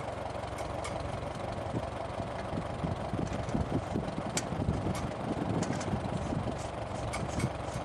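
Engine running steadily, with scattered light clicks and rattles.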